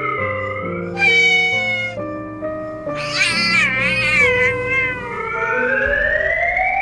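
Cat meowing and wailing over background music: a short meow about a second in, then a longer wavering wail from about three to five seconds. A rising sliding tone follows near the end.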